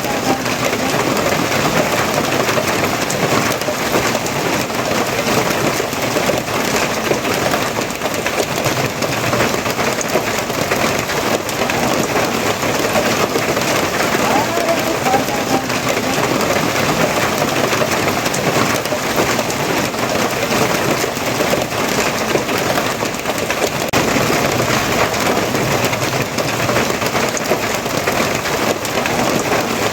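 Steady heavy rain falling and splashing on surfaces, an even hiss with dense patter.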